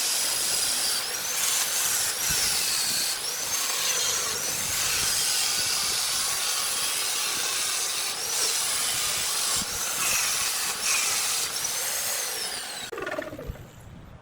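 High-speed power tool working wood, its high whine dipping briefly several times as it takes load and recovering. Near the end it is switched off, and the whine falls away as the motor spins down.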